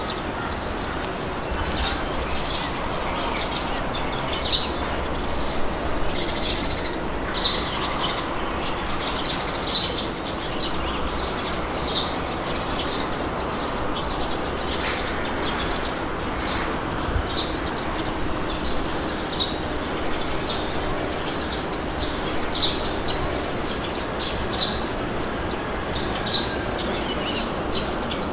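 Steady wind blowing with a low rumble, with birds chirping in short, frequent calls over it.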